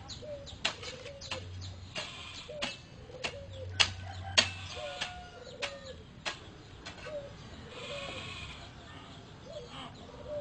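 Short, low animal-like calls that dip slightly in pitch, coming in quick runs about every half second, with scattered sharp clicks between them.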